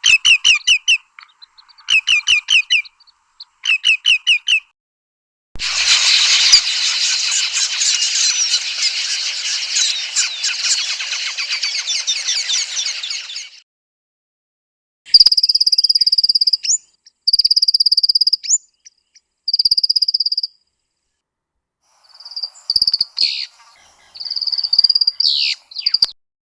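Several separate recordings of southern African bird calls played one after another, split by short silences: groups of quick repeated trills, then a dense chorus of calls lasting about eight seconds, then three long, high, steady whistles, then a mix of shorter high calls.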